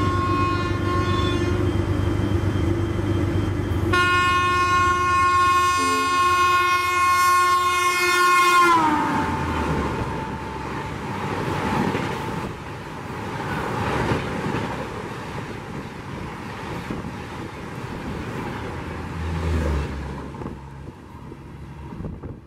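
WAP-7 electric locomotive's horn: a short blast, then a long blast that drops in pitch as the locomotive passes. This is followed by the rush and clatter of the coaches running through, slowly fading.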